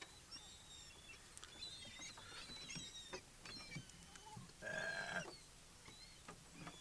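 Seagulls calling around the car: scattered short, high calls, with one louder call about five seconds in, and a few light taps.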